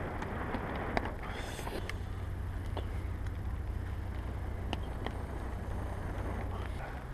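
Steady low rumble of wind on the microphone, with scattered faint clicks and a short hiss about a second and a half in.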